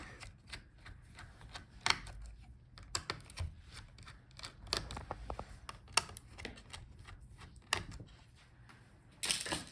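Light, irregular clicks and taps of a small screwdriver loosening the screws of a laptop's CPU heatsink, with a short rustling scrape near the end.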